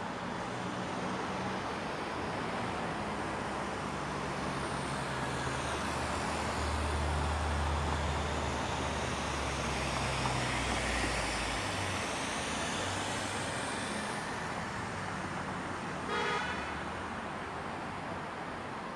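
A car drives past on a residential street: its engine rumble and tyre hiss grow louder through the middle and fade away, over a steady background hiss. A short beep sounds near the end.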